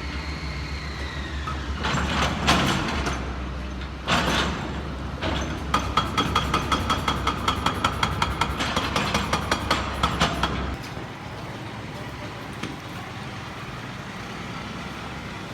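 A heavy vehicle's engine running with a steady low hum, with knocks and then a rapid regular clatter of about four beats a second for several seconds; the hum and clatter stop about two-thirds of the way through, leaving a quieter steady noise.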